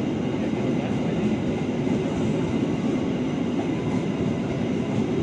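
Stainless-steel passenger coaches of a train rolling past at speed, a steady rolling noise of steel wheels on the rails.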